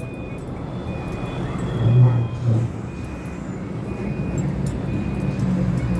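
Low engine rumble of a motor vehicle, swelling twice about two seconds in, with a faint short high tone repeating in the background.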